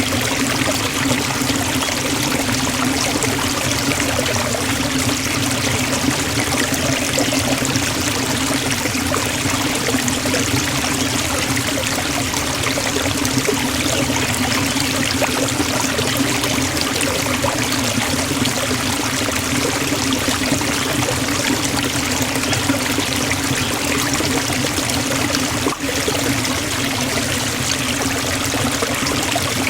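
Forest waterfall: water falling and splashing in a steady, unbroken rush, with a split-second dip in level near the end.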